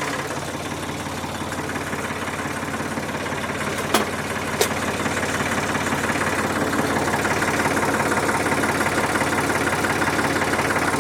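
1967 Ford 2000 tractor's three-cylinder engine running at idle, with two sharp clicks about four seconds in; it runs a little louder from about six seconds on.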